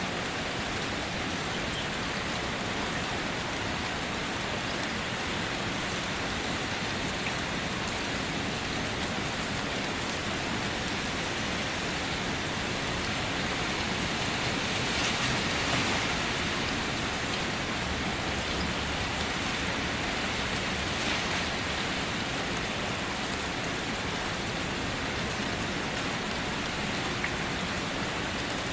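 Steady rain falling and pattering on surfaces, swelling slightly about halfway through.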